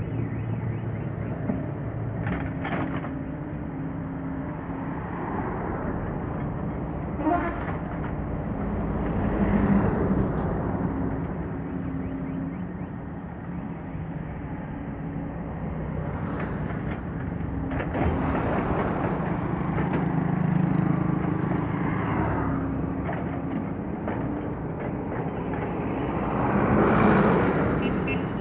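Heavy diesel engines running steadily, with vehicles passing close three times, growing louder and fading about ten, twenty and twenty-seven seconds in.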